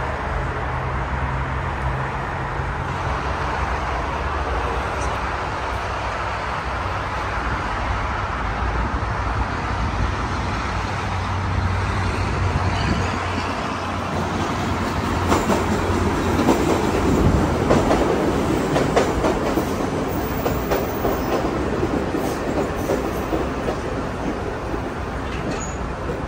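Chicago CTA Blue Line rapid-transit train pulling into an open-air station, its wheels clattering on the rails, loudest a little past halfway, over steady expressway traffic noise.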